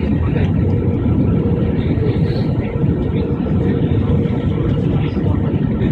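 Steady low roar inside an airliner cabin while landing: jet engine and airflow noise, with a faint steady hum.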